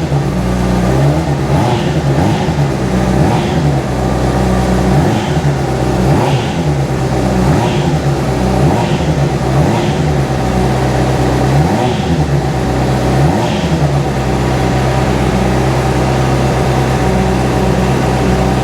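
2010 Honda CBR600RR's inline-four engine running just after start-up, revved in a series of short throttle blips that each rise and drop straight back. It then settles into a steady idle for the last few seconds.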